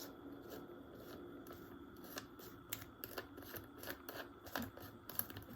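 Faint, irregular clicks and light knocks of a garlic powder container being handled over the bowl of seasoning mix.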